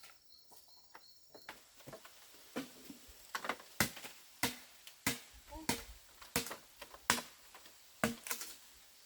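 Repeated sharp blows of a hand tool, about one every two-thirds of a second, starting a couple of seconds in.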